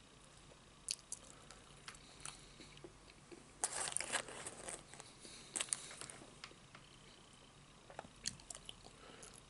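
A man eating close to the microphone: faint chewing and mouth sounds with scattered small clicks, and a louder crunching stretch about four seconds in and again briefly near six seconds.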